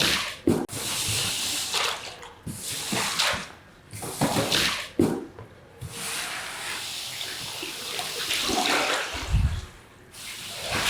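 Water sprayed in repeated hissing bursts of a second or two onto a carpet caked in hardened mud, with one longer steady spray in the second half and a short low thump near the end.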